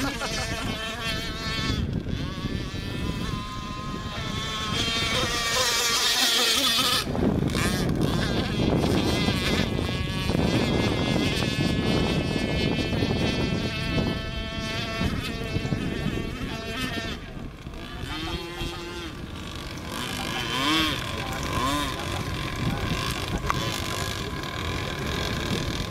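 Chung Yang F273 two-stroke water-cooled engine running a radio-controlled model boat, its pitch rising and falling repeatedly as the throttle changes.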